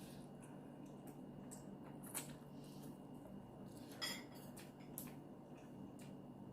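Eating utensils clinking against a bowl of spicy instant noodles, with soft wet eating sounds between. A few sharp taps, the loudest about two seconds in and again about four seconds in.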